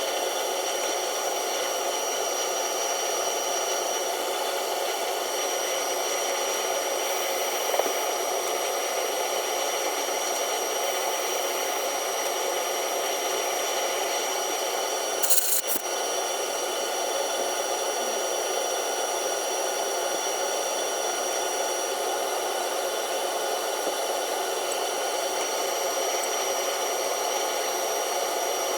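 Monarch 10EE lathe running steadily with a constant high whine, likely while single-point threading. A short sharp noise rises over it about fifteen seconds in.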